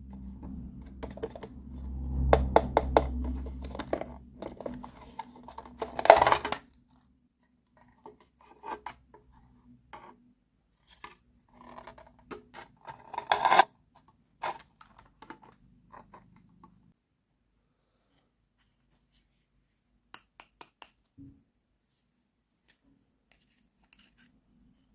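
Small plastic toy kitchen pieces and packaging being handled: clicks, scrapes and rustling, with a few sharper knocks. A low steady hum runs under the first six seconds or so, then stops suddenly. Only faint ticks follow in the last several seconds.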